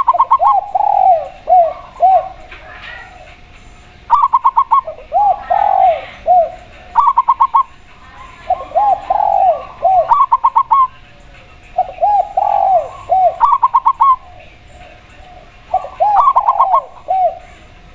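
Spotted dove and zebra dove cooing. Phrases come about every three seconds, each a quick run of short higher notes followed by a few lower arched coos.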